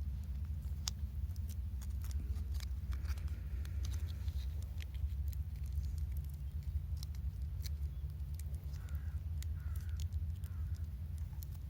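Campfire crackling in sharp, irregular snaps over a low steady rumble, with a crow cawing three times near the end.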